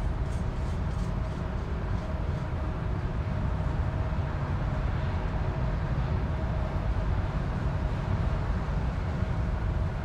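Heavy freight train running past: a steady low rumble of diesel locomotives and rolling freight cars, with faint steady tones above it.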